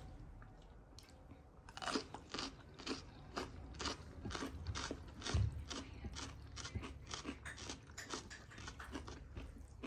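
Crunchy chewing of raw cucumber, close up: a steady run of crisp crunches, about two to three a second, starting about two seconds in.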